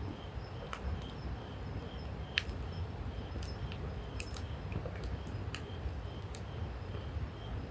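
Wood campfire crackling: scattered sharp pops, the loudest about two and a half seconds in, over a low steady rumble.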